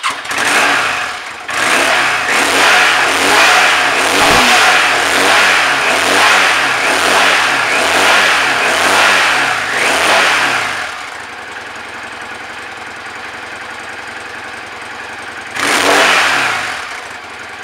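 Yamaha Dragstar 650 Classic's air-cooled V-twin running through its standard, unmodified exhaust. For about ten seconds it is revved in short blips about once a second, then it idles steadily, with one more rev near the end.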